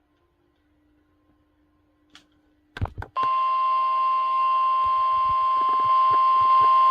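NOAA Weather Radio warning alarm tone, the 1050 Hz single tone used for the weekly Wednesday test of weather-radio receivers, heard through a radio receiver. It comes in loud and steady about three seconds in, after near silence and a couple of short crackles.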